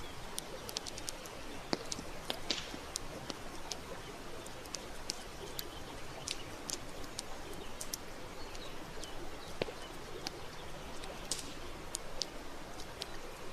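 Wood campfire crackling, with frequent irregular sharp pops, over the steady rush of a flowing river.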